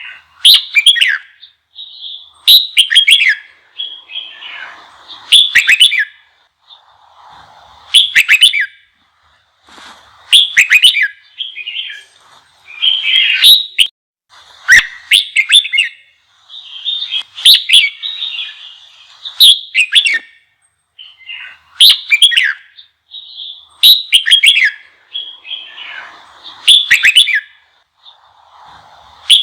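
Red-whiskered bulbul singing in loud, fast, chattering phrases, a burst about every two seconds. This is a heated, combative song of the kind played to stir newly caught bulbuls into singing back.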